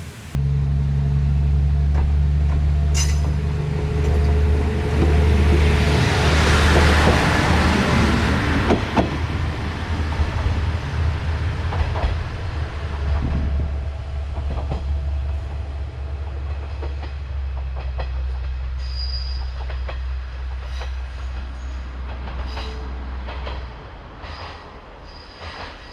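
Diesel railcar running at the platform with a steady low engine drone. A rushing hiss swells and fades about five to nine seconds in, light clicks follow, and the engine sound drops away near the end.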